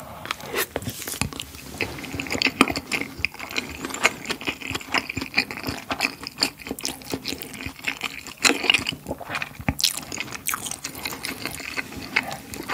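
Close-miked chewing of a mouthful of cheese gimbap coated in creamy rosé tteokbokki sauce: many irregular wet, sticky mouth clicks and smacks.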